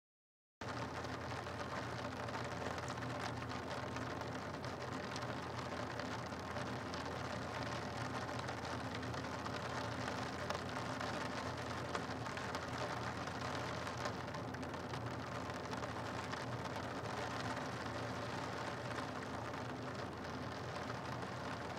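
Steady rain falling on a rooftop, heard as an even hiss with faint scattered drop ticks and a faint steady low hum beneath. The sound cuts in about half a second in after a moment of silence.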